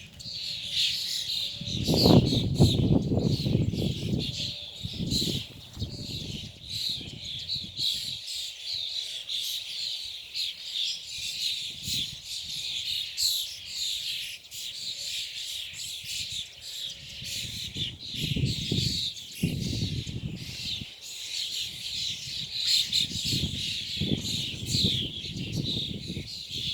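A flock of birds chirping and calling non-stop, many high calls overlapping into a dense, loud chatter, which the speaker takes for courtship calling. Low rumbles come through underneath, the loudest about two seconds in and more in the second half.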